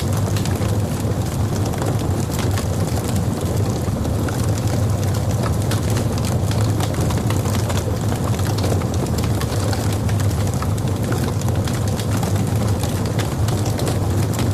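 Logs burning in a fireplace: a steady low rumble of the fire with many small, sharp crackles and pops scattered throughout.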